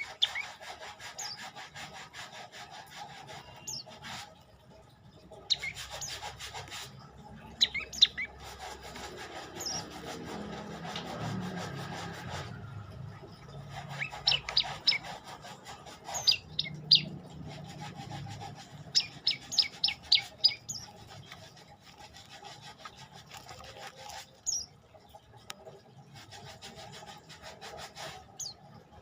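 Prenjak lumut calling in short bursts of quick, sharp, high notes, a few series of several notes each, over an intermittent scratchy rubbing noise. A low hum swells and fades midway.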